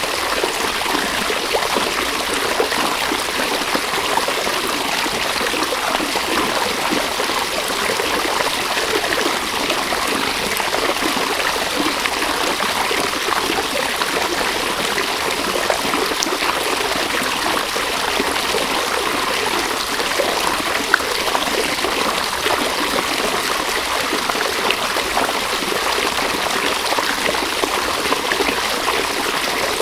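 River water running over stones, a steady babble and trickle with small splashes.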